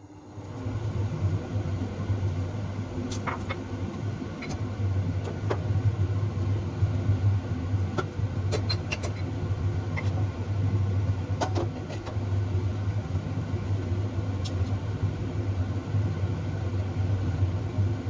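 A steady low mechanical hum that switches on at the start, with scattered light clicks and knocks over it.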